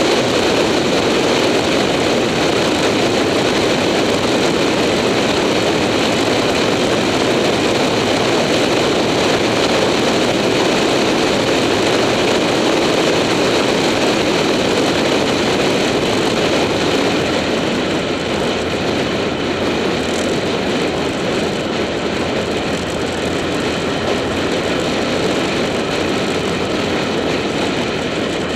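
Wind rushing over an action camera on a moving motorcycle, with the motorcycle's engine running steadily underneath. The level eases slightly a little past halfway.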